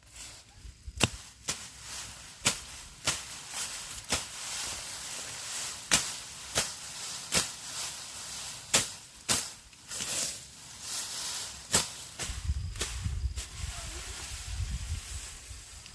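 A tool striking wood, most likely bamboo: repeated sharp knocks, irregularly spaced about half a second to a second apart.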